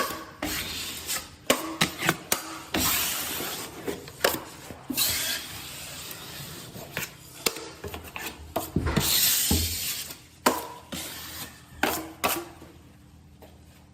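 Drywall taping knife scraping joint compound along a taped inside corner, in several scraping strokes of a second or so, with sharp taps and clicks of the blade between them; it goes quieter near the end.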